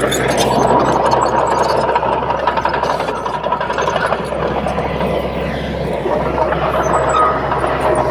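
Komatsu D31P crawler bulldozer's diesel engine running steadily, a low hum under a dense noisy rumble from the working machine. Faint thin whining tones come in near the end.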